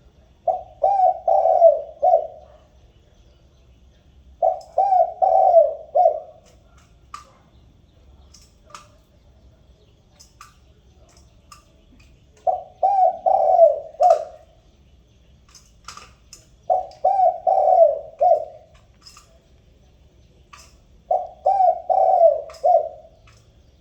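Spotted dove cooing: five phrases, each a run of low, rolling coos, repeated every few seconds, with faint high chirps in the gaps between them.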